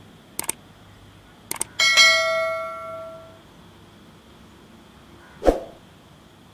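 A metal bell struck once about two seconds in, ringing and fading over about a second and a half, after a few sharp clicks. A dull thump comes near the end, over a faint steady high whine.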